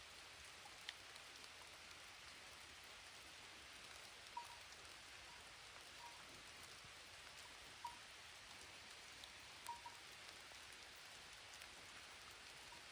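Faint steady rain, with single drops ticking every couple of seconds.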